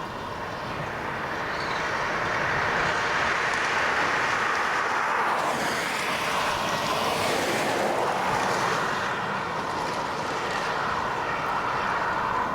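A vehicle passes by about halfway through, its sound swelling and fading over a few seconds, over a steady rushing noise.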